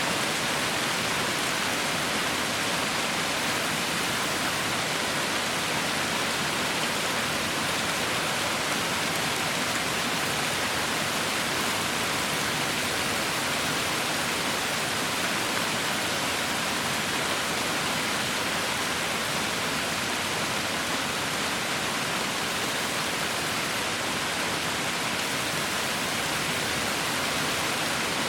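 Heavy rain falling in a steady, unbroken hiss, with no separate drops or thunder standing out.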